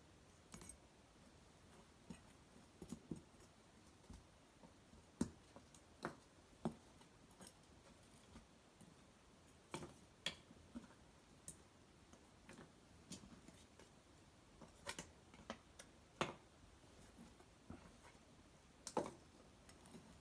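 Wood fire of cedar branches and bark burning in an irori hearth, crackling with scattered, irregular sharp pops over a quiet background. The loudest pops come about five seconds in and again near the end.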